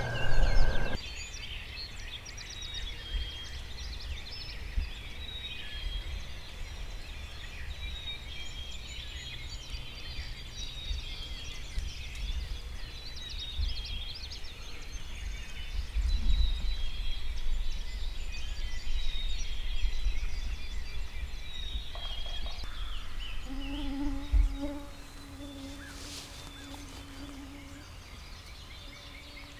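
Songbirds singing, with many chirps and trills throughout, over a low rumble. About 23 seconds in, a steady low hum with a couple of overtones comes in.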